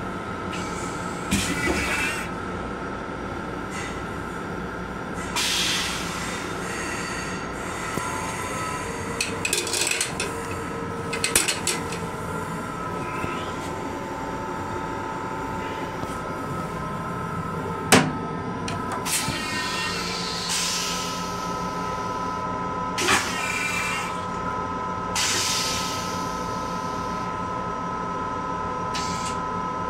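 Long Island Rail Road M7 railcar running, a steady hum with faint steady tones heard from inside its restroom. Short hissing noises come every few seconds, and there is one sharp click about eighteen seconds in.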